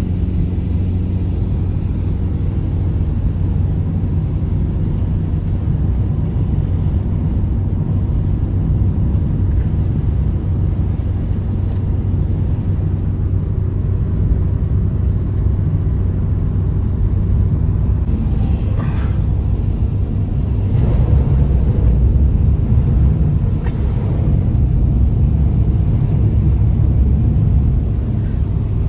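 A steady, loud low rumble that runs without a break, with a few faint short higher sounds around two-thirds of the way through.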